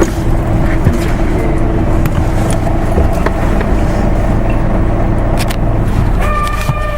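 Diesel engine of an Isuzu Erga Mio bus running steadily, heard from inside the cabin. Near the end a short electronic tone sounds for under a second.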